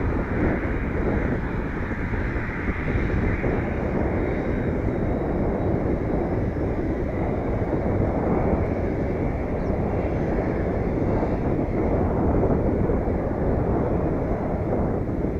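ATR 72-600 turboprop airliner taxiing, a steady rumble heard through gusty wind buffeting the microphone.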